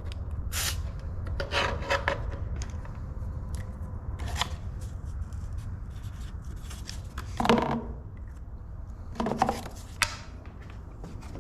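Tools and engine parts being handled after a compression test: scattered clicks, clanks and rubbing over a steady low hum, with the loudest clatters about halfway through and near the end.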